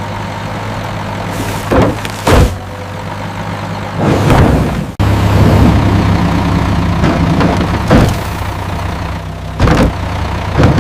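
Heavy diesel machinery engine running steadily, with several short clunks. The engine sound breaks off abruptly about halfway through and comes back louder.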